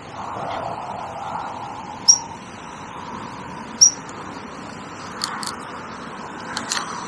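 Two short, loud, high-pitched bird chirps about two seconds apart, over a steady outdoor hiss, with a few faint clicks near the end.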